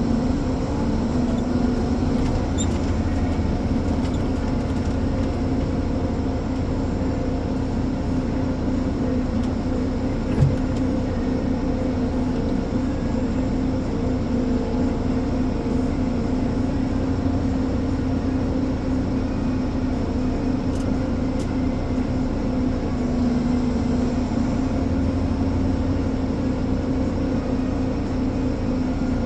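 Ponsse Elephant forwarder's diesel engine running at a steady speed, a continuous drone with a strong steady hum. There is one brief knock about ten seconds in.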